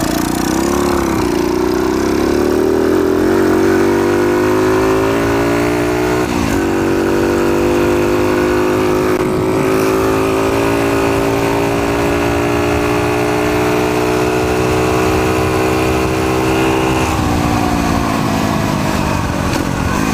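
Pitster pit bike's single-cylinder four-stroke engine under way, revs climbing as it accelerates, with a gear change about six seconds in and the pitch rising again after it. Near the end the revs fall away as the throttle is rolled off.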